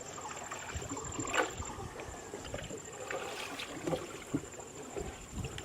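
Water lapping and splashing around a small boat moving along a canal, with a few short splashes and no engine sound. A faint steady high-pitched whine runs underneath.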